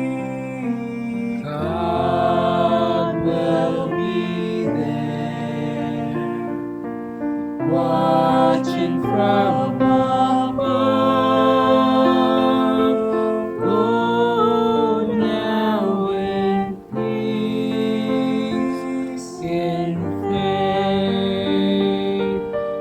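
Slow, gentle church music: sustained piano chords, with what sounds like singing voices over them.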